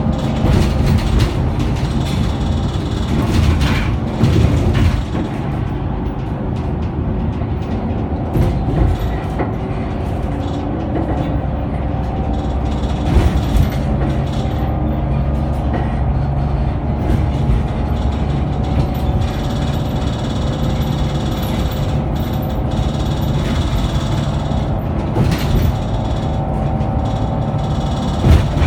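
Scania K94UB bus running under way, heard from on board: a steady engine and drivetrain drone with a whine over it, and a few brief louder knocks and rattles.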